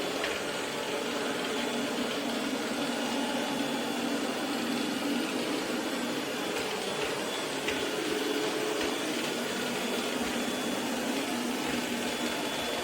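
Steady machine whir with an even hiss, holding level throughout.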